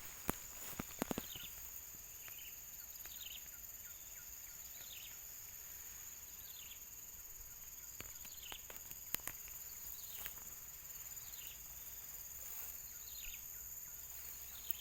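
Outdoor field ambience: a steady high insect drone, with a bird repeating a short falling chirp every second or two. A few faint clicks, like handling or a footstep, come near the start and again about nine seconds in.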